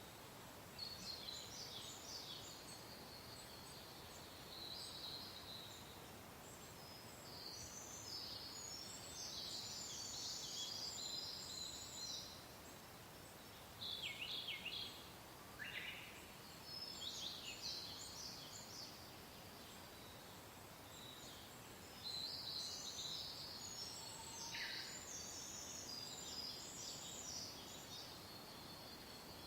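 Songbirds chirping and trilling in spells of quick, high notes with short pauses between, over a soft, steady wind hiss.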